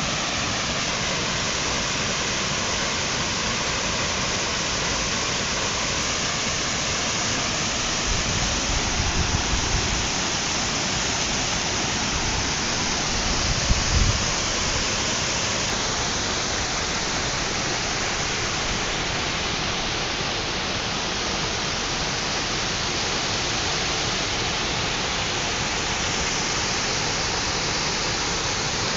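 Small waterfall, about 6 m high, pouring into a creek pool: a steady, even rush of falling water, with brief low rumbles twice near the middle.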